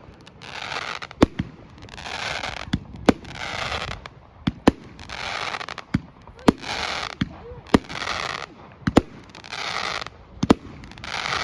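Fireworks display: a run of sharp bangs, roughly one a second, alternating with spells of crackling hiss about a second long as the shells burst.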